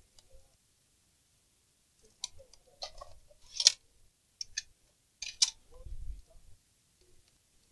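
Handling noises on a repair bench: a string of sharp clicks and taps, loudest about three and a half and five and a half seconds in, and a dull thump about six seconds in, as the laptop and tools are moved about.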